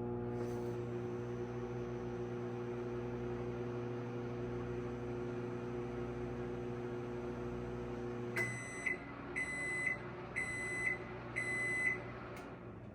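GE JES1657DM2WW microwave oven running with a steady hum, which stops about eight seconds in. Then it gives four end-of-cycle beeps about a second apart, followed by a single click.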